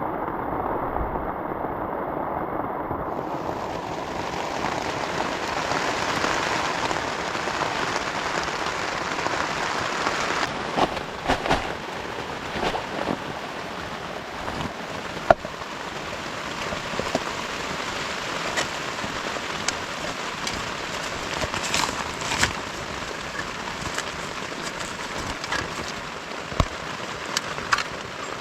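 Heavy rain falling steadily. From about ten seconds in, many sharp individual drops strike close by among the steady hiss.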